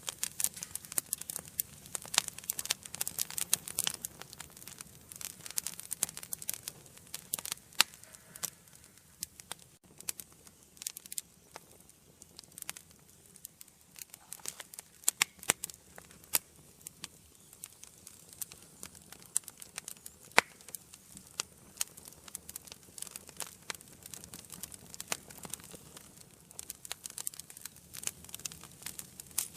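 Wood fire burning in a fireplace, crackling steadily with dense irregular pops and snaps over a faint hiss, a few sharper pops standing out.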